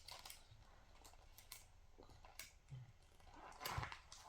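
Faint, scattered crackles and clicks of a giant chocolate egg's foil wrapper being handled and pulled open, a little louder near the end.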